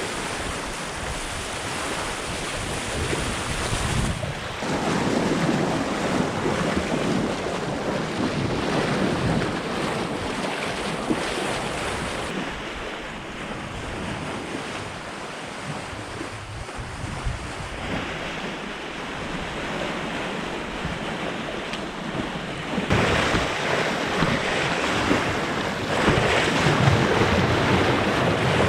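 Sea water rushing and splashing along the hull of a sailing yacht under way, with wind gusting on the microphone. The noise changes abruptly about four, twelve and twenty-three seconds in, getting louder near the end.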